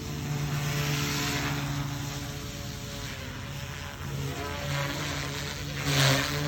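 GooSky S2 micro RC helicopter in flight: its spinning rotor blades and motor make a steady whirring hum that rises and falls with the throttle, loudest about a second in and again near the end.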